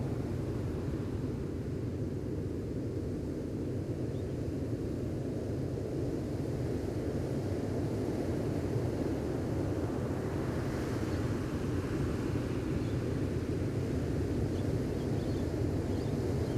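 Gentle ocean waves on a beach: a steady low rumble of surf, with one wave washing in more loudly about ten seconds in.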